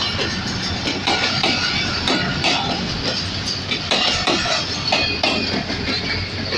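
Passenger coaches of an express train passing at speed: a steady rush of running noise with frequent clicks of the wheels over the rail joints.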